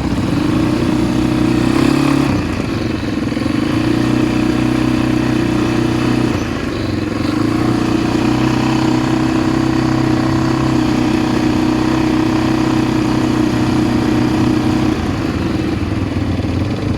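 ATV engine running at steady revs on the move, easing off briefly about two seconds in and again around six seconds, and dropping a little near the end.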